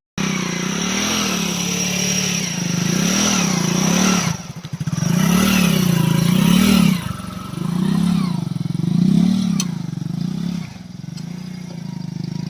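Lorry's diesel engine working hard in low gear, its pitch rising and falling over and over about once a second as the truck crawls over a rough, unmade dirt road. The engine eases off briefly about four seconds in and again about seven seconds in.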